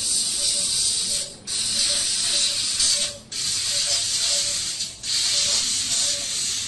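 Fiber laser tube cutting machine cutting, its assist gas jet giving a steady loud hiss that stops briefly about every two seconds, three times in all.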